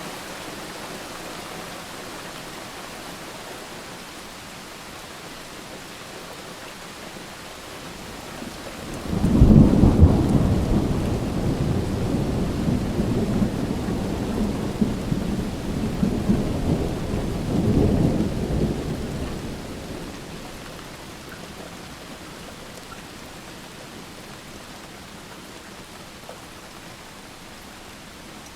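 Steady rain falling, with a loud peal of thunder breaking suddenly about nine seconds in, rumbling for some ten seconds with a second swell, then dying away into the rain.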